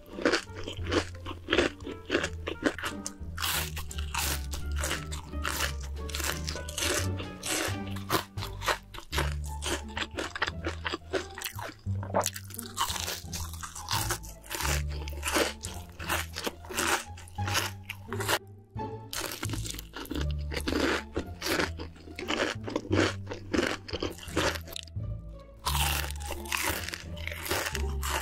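Crisp crunching and chewing of fried chicken, many rapid crunchy bites in a row, over background music with a steady bass line.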